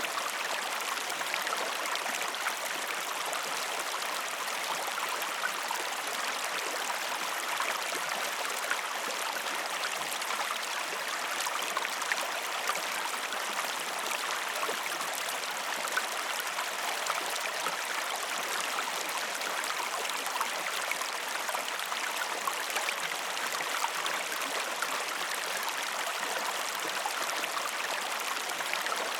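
Steady flowing water, a continuous stream-like rush with small droplet ticks scattered through it.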